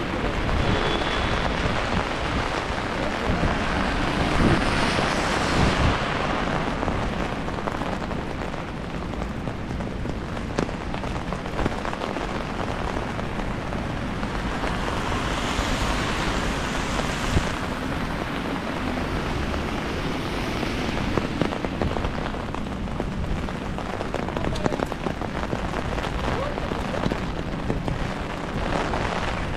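Steady rain pattering on an umbrella overhead, with the hiss of car tyres on the wet road swelling and fading a few times.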